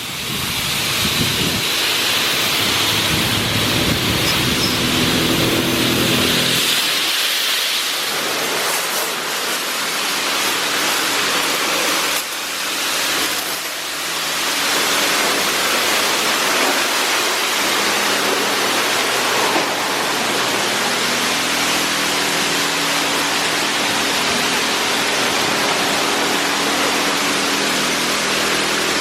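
Water jets of a PDQ LaserWash 4000 touchless car wash spraying onto the car, a steady hiss, with a low hum from the wash machinery underneath.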